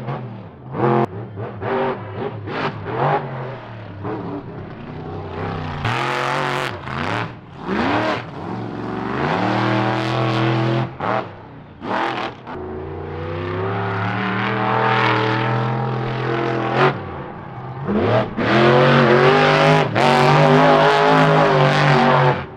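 Kraken monster truck's engine revving through a freestyle run. Short throttle blips at first, then longer revs rising and falling in pitch, at its loudest and most sustained near the end.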